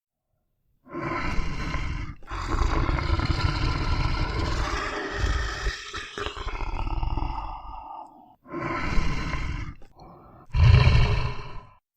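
Big cat roaring and growling: a long rumbling stretch starting about a second in, then two shorter roars near the end, the last the loudest.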